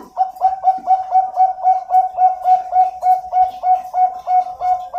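Zebra dove (perkutut) singing: a long, even series of short coos, about three and a half a second, each with a brief higher start.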